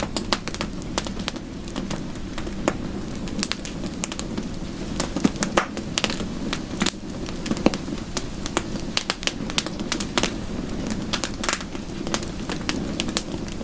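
Wood fire in a fireplace crackling, with irregular sharp pops and snaps over a steady low rush.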